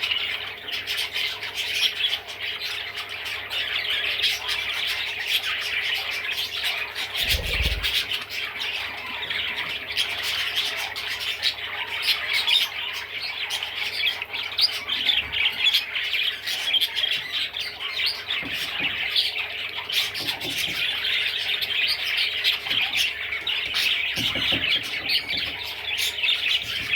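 Budgerigar chattering and warbling without pause: fast squawks, chirps and clicks. A low thump about seven and a half seconds in.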